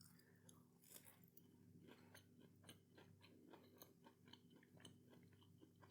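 Faint chewing: quiet, irregular small clicks of a mouth eating a breaded fishless finger.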